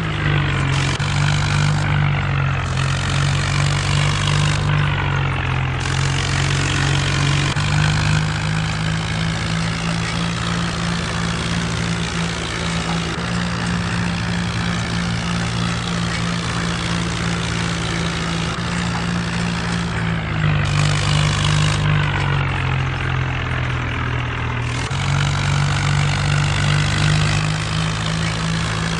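Mahindra Arjun tractor's diesel engine running steadily, its engine note shifting slightly in pitch a few times.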